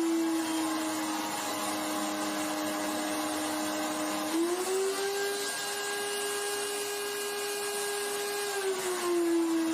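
High-power 2200-watt countertop blender running with an empty jar, a steady motor whine. Its speed steps up about four seconds in and drops back near the end.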